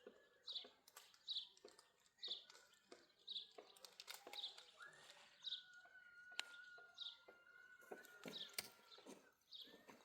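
Faint bird repeating a short high chirp about once a second, over scattered light clicks and knocks. A thin steady whistle-like tone holds for about four seconds in the middle.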